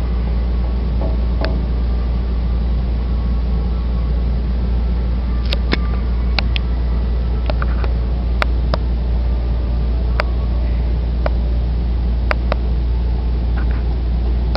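Large power-plant engine running steadily just after being started for its first test run: a loud, deep, even hum, with a scattering of sharp clicks through the middle.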